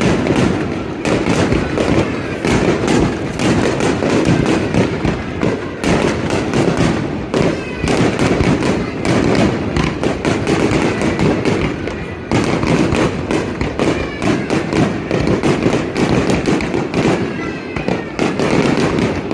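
Fireworks display going off in a continuous barrage: many firework bursts and crackling reports a second, with no break.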